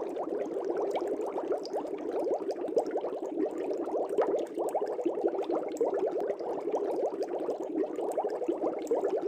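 Aquarium air bubbles rising and bubbling in the water of a fish tank: a dense, steady stream of small gurgling bubble sounds.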